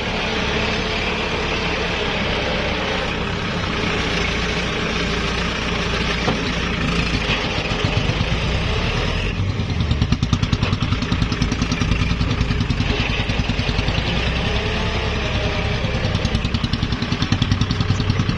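Kubota L5018SP tractor's diesel engine running, with a broad machinery hiss over it. About nine seconds in the hiss drops away and the engine note turns into a rapid pulsing beat.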